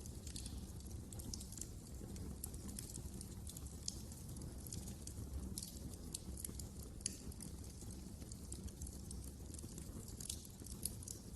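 Wood fire crackling: frequent small snaps and pops over a low, steady rumble, with a couple of louder pops about 4 and 7 seconds in.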